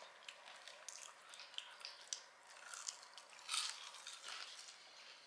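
Close-miked chewing of crisp curly fries: faint, scattered crunches as they are bitten and chewed, the loudest about three and a half seconds in.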